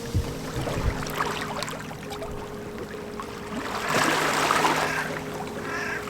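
Small waves lapping gently at the water's edge over a steady low hum, with a few low thumps in the first second and a stretch of louder splashing and hiss in the middle.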